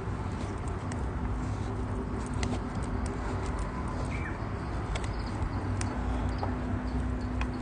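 Wood campfire crackling, with scattered sharp pops over a low rumble, and a short high chirp about four seconds in.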